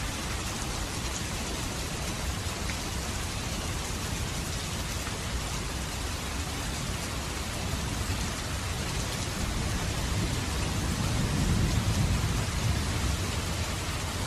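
Steady rain falling, with a low rumble of thunder that swells about ten seconds in and fades toward the end.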